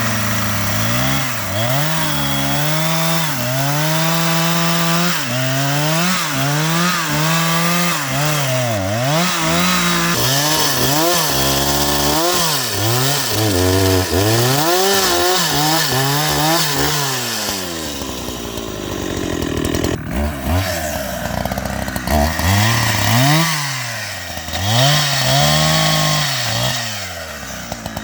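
Two-stroke chainsaw cutting wood, its engine revving up and dropping back again and again as the chain bites into the wood.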